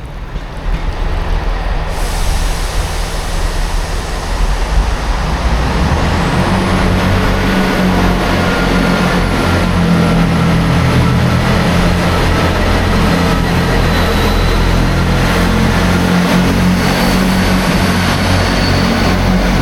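Diesel train's engine running, a deep steady throb that grows louder about six seconds in, with a steady hiss that comes in about two seconds in.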